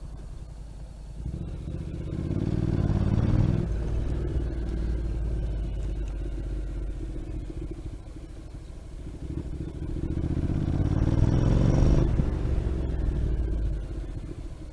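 Motorcycle engine accelerating: its pitch climbs for a couple of seconds, drops at a gear change, runs steadily, then climbs again about ten seconds in and eases off near the end.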